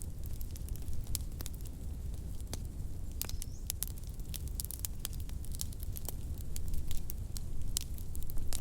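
Fire crackling in a fireplace: irregular sharp crackles and pops over a steady low rumble of the flames.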